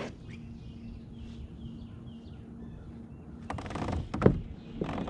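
Small birds chirping faintly in short repeated calls, with a steady low hum. About three and a half seconds in comes a loud rustle ending in a sharp knock, then a shorter rustle just before the end.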